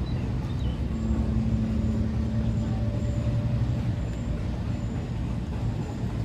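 A heavy engine running steadily: a continuous low rumble with a faint hum through the first half.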